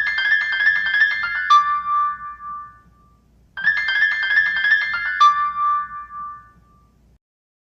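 A mobile phone ringtone: a short melody played twice, each time a quick run of notes ending on one held note that fades out.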